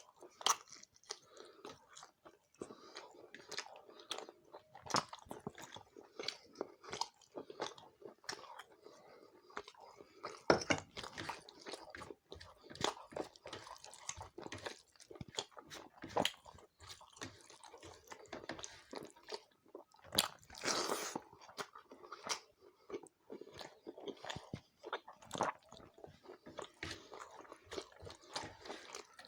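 Close-miked eating: a person chewing and biting dry chicken curry with rice and roti, with irregular crunchy clicks and wet mouth sounds.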